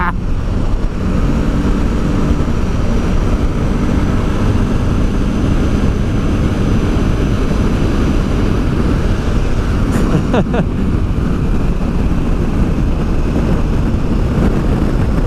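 Honda Deauville V-twin motorcycle running at high motorway speed, its engine drone steady under heavy wind rush on the rider's microphone. A brief sharper sound cuts through about ten seconds in.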